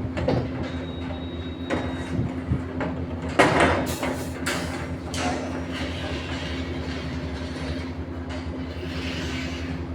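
Construction machinery running with a steady hum, with scattered metallic clanks and a loud burst of clatter about three and a half seconds in.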